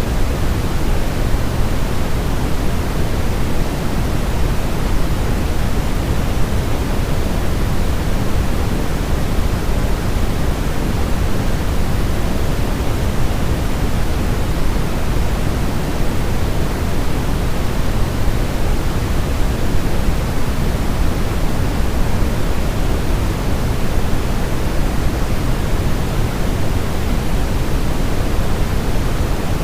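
Steady, unchanging electronic white noise, weighted toward the low end like pink noise, with no tones or breaks.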